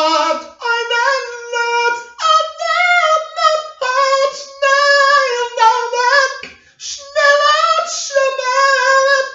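A single high voice singing unaccompanied, holding sustained notes in short phrases of about half a second to a second and a half, with brief breaths between them.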